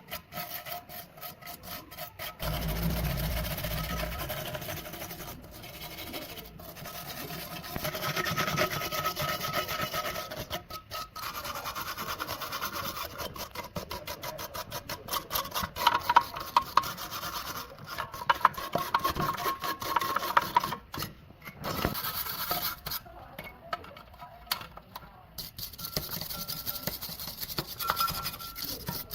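Repeated rubbing and scraping, in short clips cut one after another with abrupt breaks.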